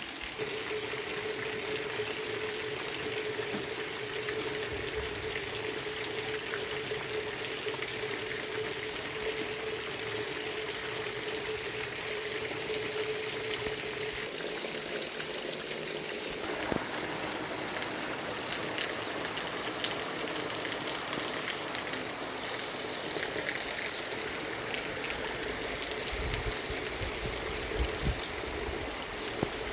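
Steady heavy rain with running, trickling water, an even hiss. A steady low hum sounds under it for about the first fourteen seconds, then stops.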